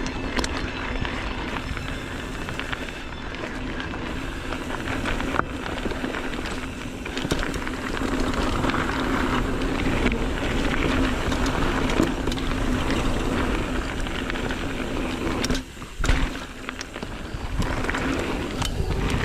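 Mountain bike riding fast along a dirt trail: tyre noise and wind on the microphone, with scattered knocks and rattles from the bike over bumps, and a sharp knock about sixteen seconds in.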